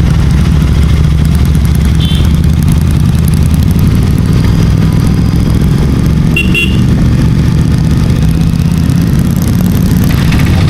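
Royal Enfield Continental GT650's parallel-twin engine running steadily through an aftermarket Red Rooster exhaust while riding, with two short horn toots, about two seconds in and again about six and a half seconds in.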